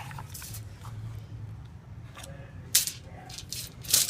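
A metal spoon clinking and scraping against a can of wet cat food: a few short, sharp clicks spread out, the loudest about two and three-quarter seconds in, with more near the end.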